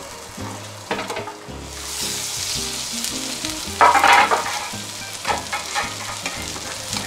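Hamburg-style chicken tsukune patties sizzling in hot fat in a nonstick frying pan. The sizzle grows louder as the lid comes off about two seconds in, with a brief louder burst of spitting about four seconds in.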